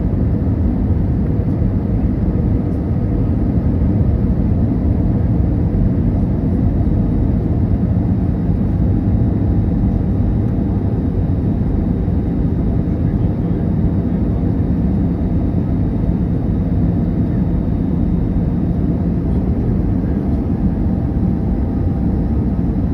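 Airbus A319 cabin noise: a steady rush of airflow and engine hum at an even level.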